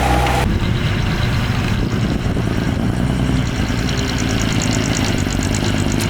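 The heavy diesel engine of earthmoving machinery runs with a deep rumble, and the sound changes abruptly about half a second in. From a little past halfway, a fast, high-pitched ticking of several beats a second joins it.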